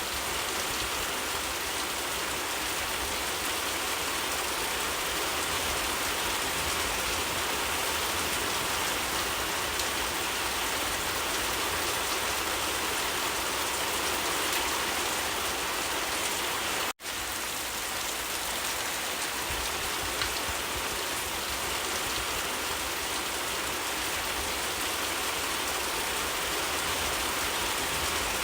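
Steady, heavy rain falling, an even, unbroken hiss of drops. It cuts out for a split second a little past halfway, then carries on unchanged.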